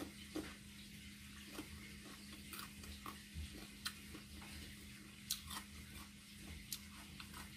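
Close-up chewing of crisp green mango slices: scattered, irregular crunches and wet mouth clicks, over a faint steady low hum.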